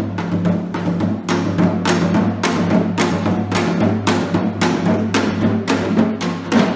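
Percussion-led music: drum strikes at about two to three a second over a steady low hum.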